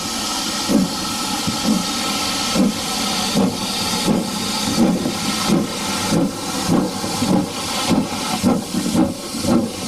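Steam locomotive gathering speed: its exhaust beats come faster and faster over a steady hiss of steam.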